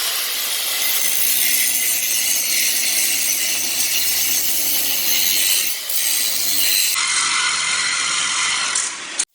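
Angle grinder with a cut-off wheel grinding down steel floor bolts in a school bus, a loud steady high-pitched hiss. The tone shifts about seven seconds in, and the sound stops abruptly near the end.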